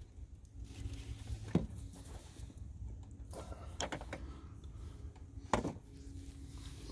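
Scattered light clicks and taps, three of them sharper, over a low rumble.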